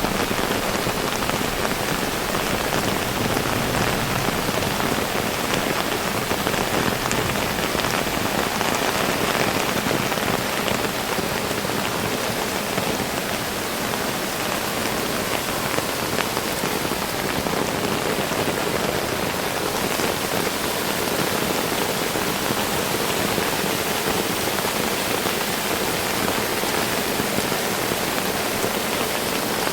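Heavy rain falling steadily, a dense even hiss of drops hitting surfaces with fine patter throughout.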